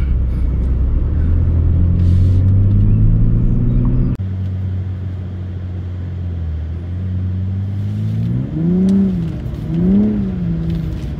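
BMW car engine heard from inside the cabin, running steadily under load, then near the end revving up and dropping back twice in short throttle bursts.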